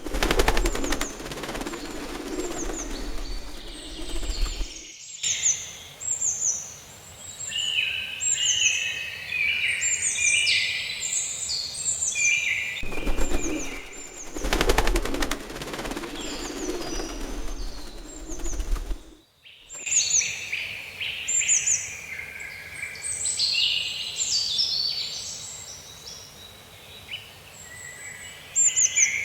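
Many small birds chirping in quick, short calls throughout. Twice, a dense, rapid rattling noise joins them: once for the first five seconds or so, then again from about 13 to 19 seconds in, each time cutting off suddenly.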